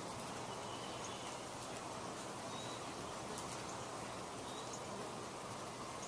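Steady outdoor nature ambience: an even hiss with faint short chirps and scattered light ticks.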